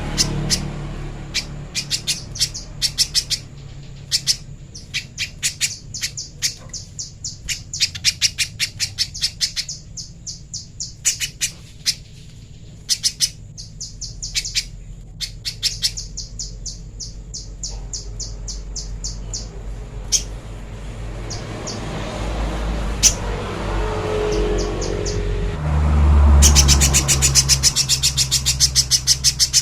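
Spiderhunter (pijantung pisang) calling: runs of rapid, sharp high chips, several a second, broken by short pauses, with a dense unbroken run near the end. A low rumble sits underneath and grows louder near the end.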